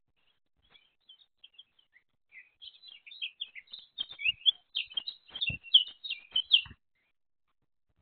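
Small bird chirping: a run of short, high chirps that starts sparse, gets louder and busier about four seconds in, then stops. A few dull low thumps sound under the loudest chirps.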